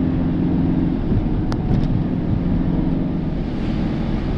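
Steady low drone of a motor vehicle running, with engine and road noise.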